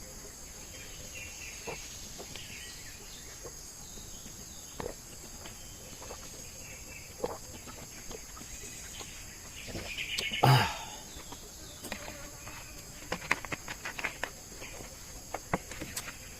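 Steady high-pitched insect chorus of crickets or cicadas, with scattered light clicks and knocks and one brief louder call or noise about two-thirds of the way through.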